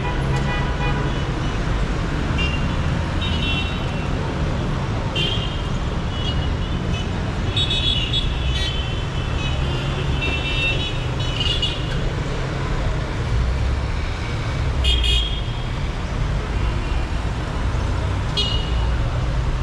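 Dense city street traffic: a steady rumble of engines and tyres, with many short, high-pitched vehicle horn toots sounding every second or two.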